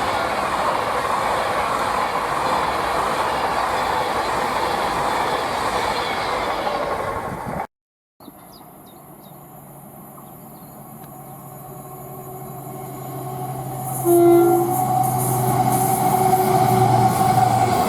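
A train passing close at speed, a loud steady rush of wheels and air that cuts off suddenly about seven and a half seconds in. After a moment's silence a second train approaches, growing steadily louder, and gives one short horn blast about fourteen seconds in, while a low steady engine hum builds as it nears.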